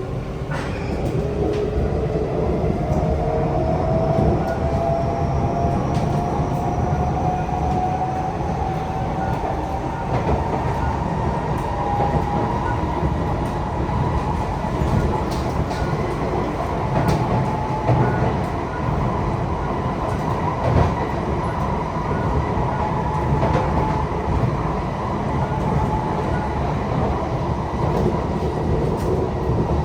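Inside a Kawasaki C151C metro train pulling away: the traction motor whine rises in pitch over the first ten seconds or so, then holds steady at running speed. Under it is a constant rumble of wheels on the track, with scattered clicks.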